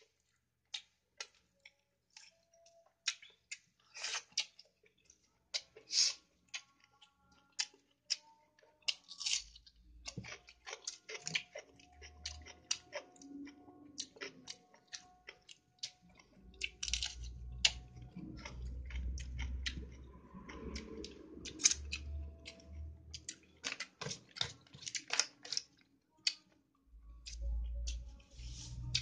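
Close-up chewing and mouth sounds of a person eating chicken biryani by hand: a steady run of short wet smacks and clicks, with low rumbles coming and going through the second half.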